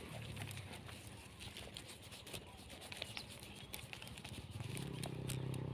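Faint rustling and small clicks, then about four and a half seconds in the low, steady hum of an engine comes in and grows louder.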